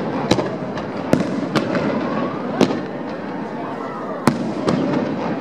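Aerial fireworks shells bursting overhead: about six sharp bangs at uneven intervals over five seconds, with spectators' voices in the background.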